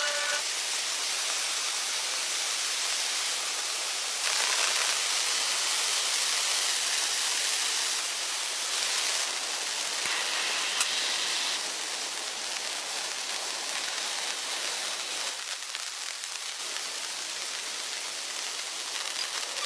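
Heavy rain falling with a steady hiss. Its loudness steps up and down abruptly a few times, and there is one short sharp tick about halfway through.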